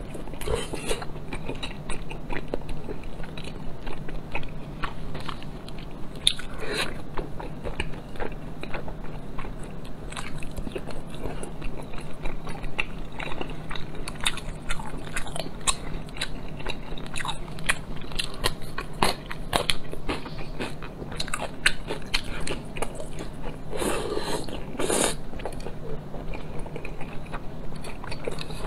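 Close-miked chewing and biting of braised pork belly: a steady run of quick mouth clicks and smacks, over a low steady hum.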